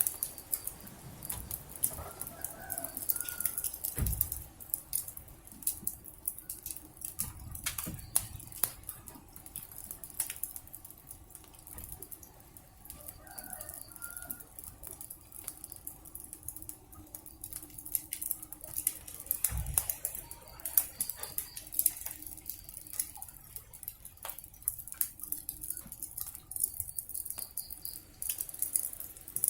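Wood fire crackling, with many sharp pops and snaps over a steady hiss. Chickens cluck briefly a couple of times, and there are two dull thumps.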